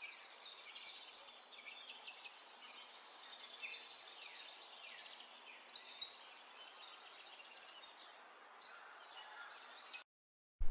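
Many small birds chirping together: a dense chorus of quick, high chirps and short downward-sliding calls that cuts off suddenly near the end.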